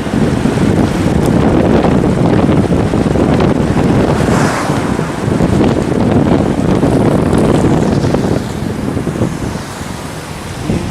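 Wind buffeting the microphone outdoors: a loud, steady rumbling noise that eases a little about eight seconds in.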